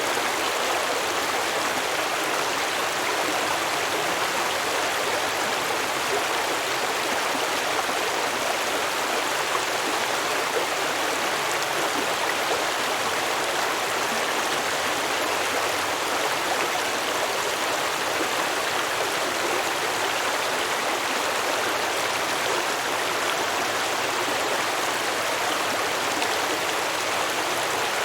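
A small stream flowing and babbling over rocks, a steady rush of water.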